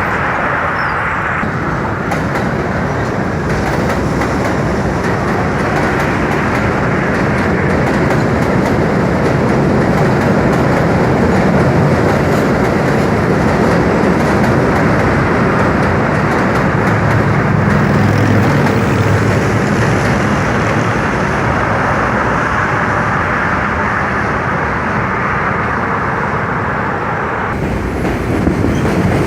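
New York City subway train running over the Williamsburg Bridge tracks, a steady noise of wheels on rails that swells a little in the middle and shifts abruptly near the end.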